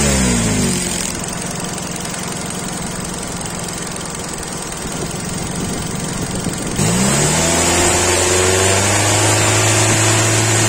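Car engine running in the engine bay. A motor's hum winds down and fades about a second in, leaving a steady rushing noise. About seven seconds in it spins back up with a rising pitch and settles into a steady hum.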